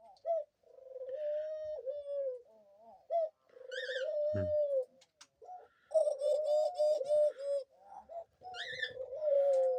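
Pet dove cooing: long, low, drawn-out coos, some bending down in pitch, with a quick run of clicks about six to seven and a half seconds in.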